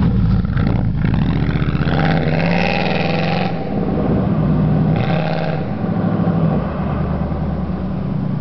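Chevy Tahoe V8 with straight-piped exhaust (catalytic converters kept, no headers) running loud under hard throttle, with two harder bursts about two and five seconds in.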